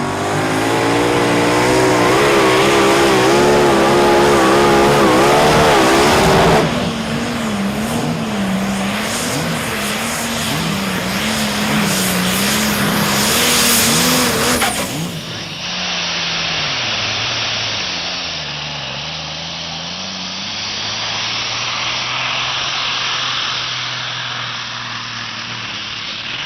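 Pulling-vehicle engines running hard under load down the track, pitch wavering up and down, in several spliced runs: the sound cuts to a different run about six and a half seconds in and again about fifteen seconds in.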